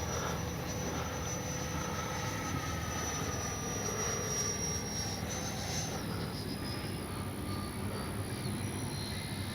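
FMS Futura V3's 80mm 12-blade electric ducted fan whining as the jet flies overhead, its high tone stepping down in pitch a few times in the second half as the throttle is eased.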